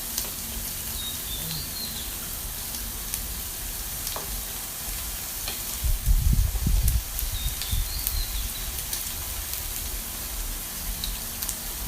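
Pork belly sizzling on a Thai mookata grill-and-hotpot pan: a steady frying hiss with scattered pops of spattering fat. Low rumbles come in about six seconds in and again at the end.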